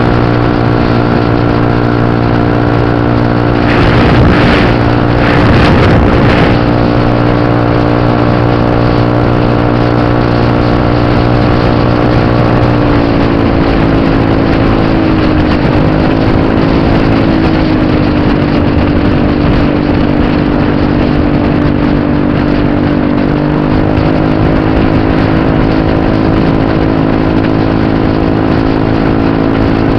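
Motor scooter engine running at fairly steady revs, its pitch shifting down and back a little a few times. Brief rushing swells of noise about four and six seconds in.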